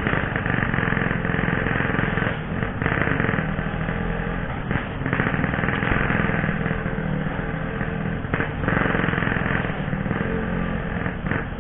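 Yamaha RX King 135 cc two-stroke motorcycle engine running while being ridden, its pitch shifting every few seconds, with heavy wind noise on the helmet microphone.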